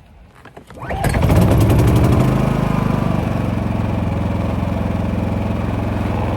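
An engine starts about a second in, runs a little faster at first, then settles into a steady idle.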